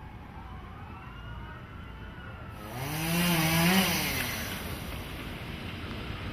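A faint siren wails and glides in the distance, then an engine sound swells loud about two and a half seconds in, its pitch wavering, and fades away over the next two seconds.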